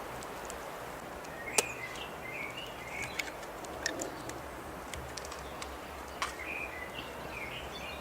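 Birds chirping in two short bouts over steady outdoor background noise, with a few sharp clicks, the loudest a little over a second in.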